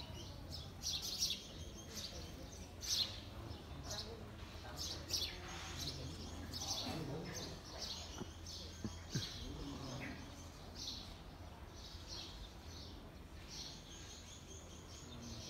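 Small birds chirping in short, high, irregular chirps, with faint voices in the background.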